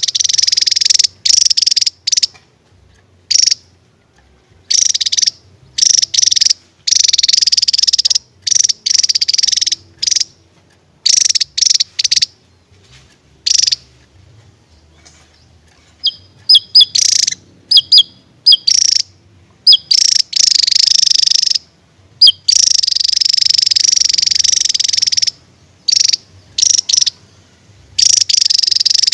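Javan tesia singing loudly: bursts of rapid, high, buzzy chattering song lasting from a fraction of a second to a few seconds, broken by short pauses, with a run of short sharp separate notes partway through.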